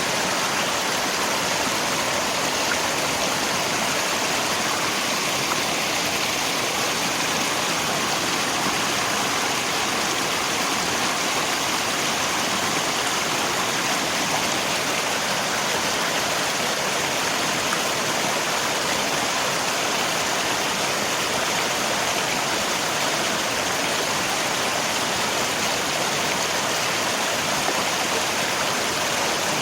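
Steady rushing of flowing river water mixed with rain, an even, unchanging wash of water noise.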